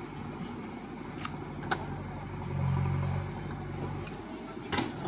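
JCB backhoe loader's diesel engine running steadily while digging, its note swelling briefly about halfway through. A few sharp knocks sound over it, two of them close together near the end.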